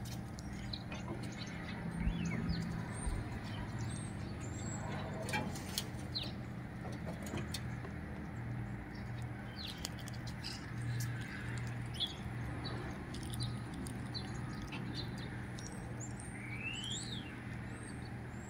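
Outdoor ambience: small birds chirping again and again over a steady low hum, with a few sharp clicks, and one longer rising then falling call near the end.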